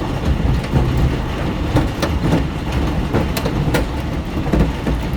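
Large hailstones slamming onto a car's windows and roof, heard from inside the car: a heavy steady rumble with many irregular sharp knocks.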